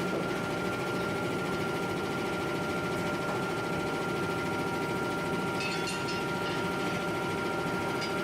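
Heavy forging machinery running steadily, a continuous mechanical hum with a constant high whine over it. A few faint metallic clinks come about six seconds in.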